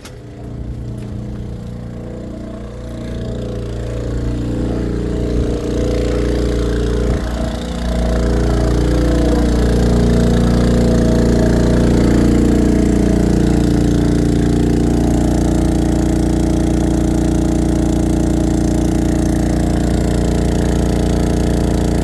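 Pulsar PGD40ISCO inverter generator running steadily under load from a microwave and an air conditioner, growing louder over the first eight seconds or so and then holding a steady drone.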